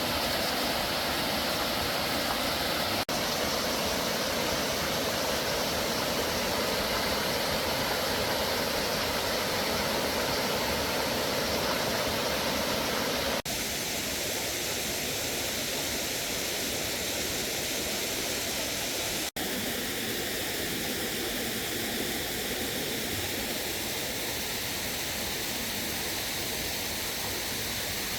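Steady rush of flowing water from a mountain stream, with brief breaks about 3, 13 and 19 seconds in where the sound cuts and changes slightly in tone.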